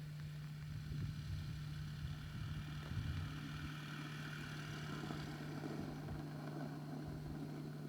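Car engine running steadily, with a constant low hum.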